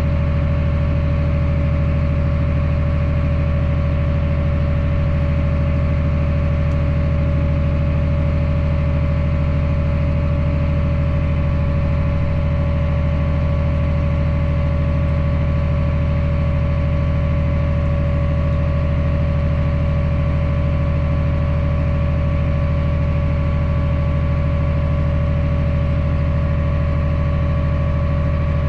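Engine of a John Deere farm sprayer rig running steadily: a constant low hum with a steady whine over it.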